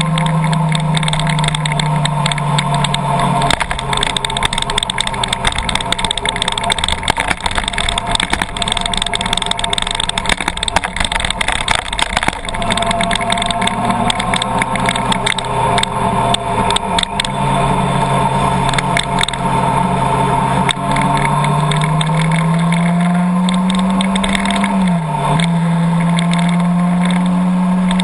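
Car engine running while driving, its note holding steady with small shifts, then rising over a few seconds, dipping briefly near the end and settling back. Irregular taps and clicks sound over the first half.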